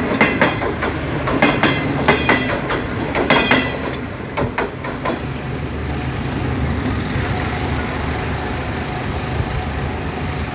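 Railway passenger coaches rolling past close by, their wheels clacking over the rail joints in quick groups until the last coach clears about five seconds in. A steady low rumble then carries on without the clacks as the train moves away.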